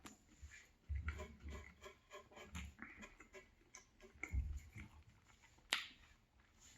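Chewing a banh mi sandwich close to the microphone: irregular soft chews and small mouth clicks, with one sharper click near the end.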